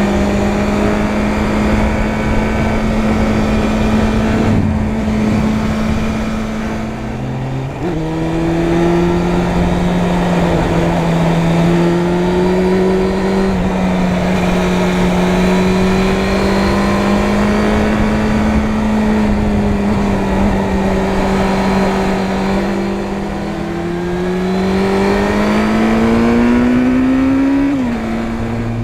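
Suzuki Bandit 600 N's inline-four engine running under way at fairly steady revs, with a gear change about seven or eight seconds in. Near the end the revs rise, drop suddenly at an upshift, and rise again.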